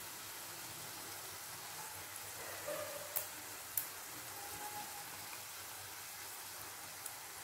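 Chopped vegetables sizzling in oil in a nonstick kadai, a steady frying hiss. Two sharp clicks come a little after three seconds in, and a fainter one near the end.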